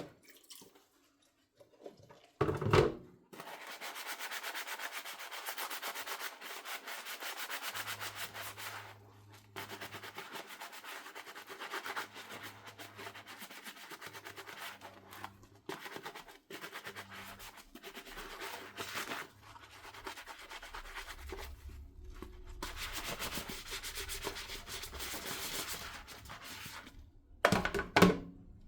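Sponge scrubbing a dish in quick back-and-forth strokes, with a few short pauses. A dish knocks against the sink a few seconds in and again near the end.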